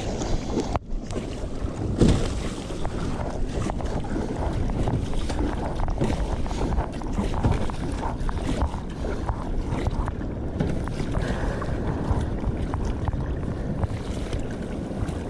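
Wind buffeting the microphone over the wash of surf and churning water around a fishing kayak heading out through the waves, with a louder gust or splash about two seconds in.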